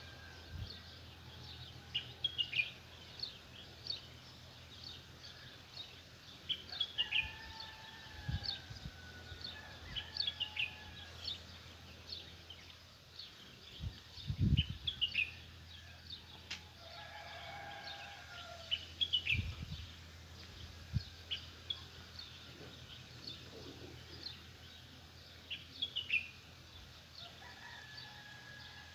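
Small songbirds chirping over and over in short, quick falling notes, with a rooster crowing now and then. A steady low hum and a few dull thumps lie underneath.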